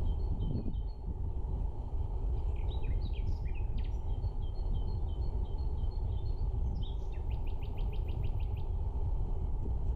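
Small songbirds chirping, with runs of quick, evenly repeated high notes, over a steady low rumble of outdoor noise.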